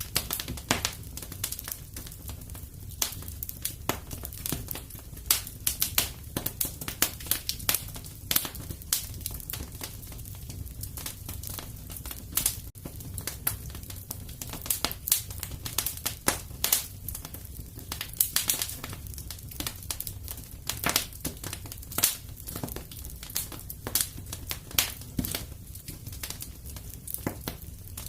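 Wood fire in a fireplace crackling, with dense, irregular pops and snaps over a steady low rumble.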